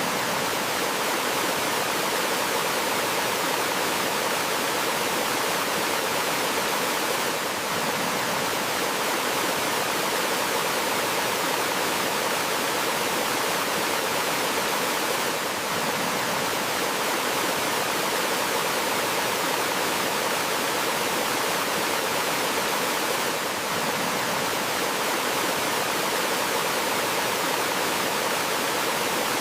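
Steady, even rush of flowing water from a small forest waterfall and stream.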